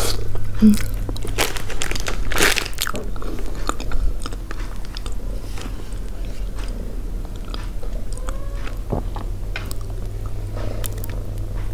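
Close-miked mouth sounds of a person biting into a piece of steamed yellow pumpkin and chewing it: a few loud bites and wet smacks in the first three seconds, then quieter, steady chewing clicks. A steady low hum runs underneath.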